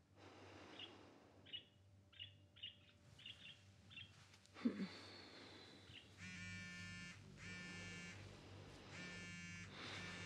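Short, faint bird chirps, a few a second, over quiet room tone. About six seconds in, a repeating trill starts, coming in pulses of about a second each with a low buzz under every pulse.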